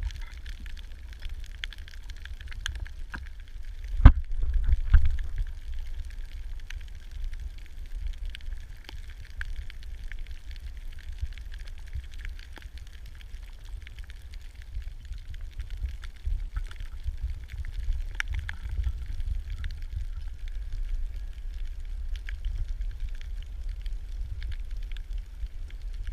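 Underwater sound picked up by a diving camera: a steady low rumble with faint crackling and clicking, and a sharp knock about four seconds in.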